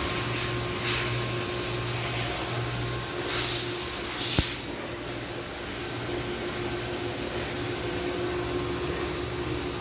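Steady hiss and hum of a running fan or similar air-moving machine. About three seconds in, a louder spray-like hiss lasts for a second or two.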